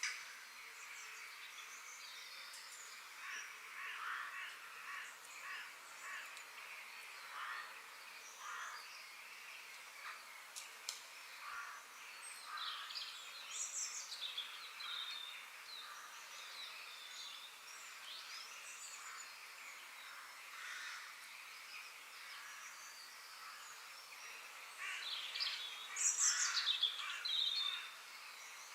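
Forest ambience: several birds chirping and calling over a faint steady hiss, with a louder flurry of calls near the end.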